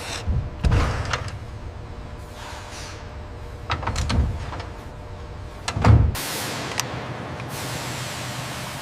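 Heavy industrial hoisting machinery taking up load: a series of metallic clunks and knocks, the loudest just before six seconds in, followed by a steady hiss.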